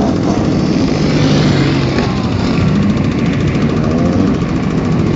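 250cc grasstrack racing motorcycle engines running loudly and steadily.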